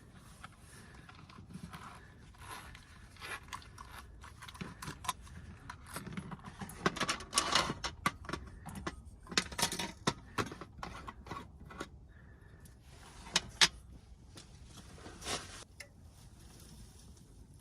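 Small hard objects being handled: irregular clicks, clinks and short scrapes, busiest through the middle, with two sharp knocks in the later part.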